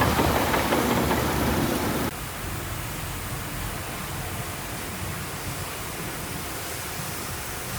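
Heavy earthmoving machine's diesel engine running loudly. It cuts off abruptly about two seconds in, leaving a steady hiss with a low rumble underneath.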